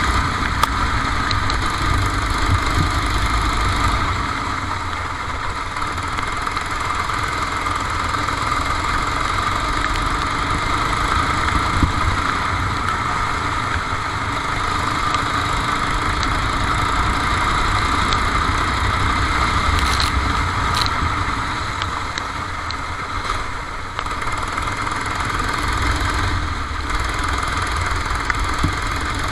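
Kart engine running continuously, heard from on board, with the level easing off briefly a few seconds in and again near the end.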